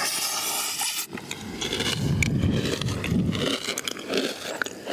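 Close-miked chewing of a mouthful of crunchy chocolate spread, its crispy chocolate balls crackling between the teeth, with wet mouth sounds. A dense crunch sits in the first second, then irregular chewing follows.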